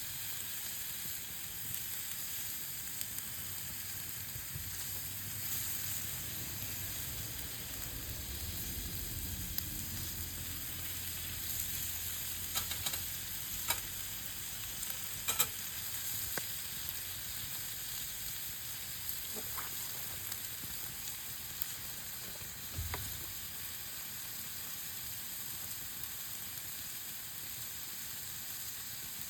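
Meat sizzling as it grills over a campfire: a steady hiss with a few scattered sharp pops.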